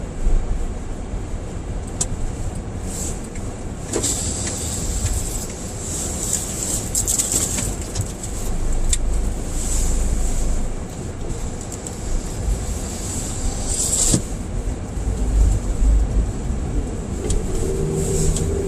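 Car driving slowly along a snow-covered street: a steady low rumble of engine and tyres, with scattered short clicks and crackles. A brief pitched sound comes near the end.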